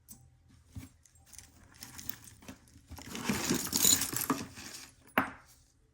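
Pieces of costume jewelry clinking and rustling as they are handled and sorted through, with a busier stretch of jangling past the middle and one sharp click near the end.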